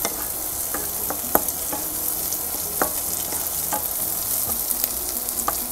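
Diced luncheon meat and mixed vegetables sizzling in a hot frying pan while a spatula stirs them, with short scrapes and taps of the spatula against the pan every second or so.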